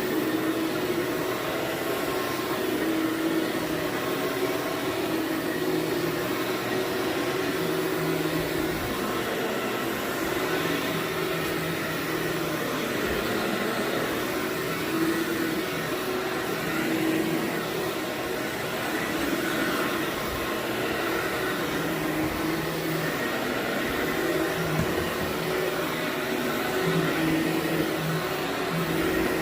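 Vacuum cleaner running steadily over carpet, a continuous motor hum and airflow whose pitch wavers slightly as it is worked back and forth.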